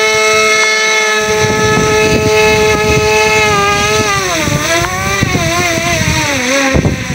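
Quadcopter drone's propellers whining, a steady pitch at first, then wavering and dipping as the motors work during the descent to land. The whine stops shortly before the end, as the motors shut off. Strong wind buffets the microphone underneath.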